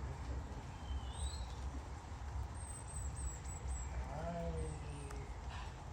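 Tits at a bird feeder giving short, very high, thin calls again and again, with a rising chirp about a second in and a lower falling call about four seconds in, over a steady low rumble.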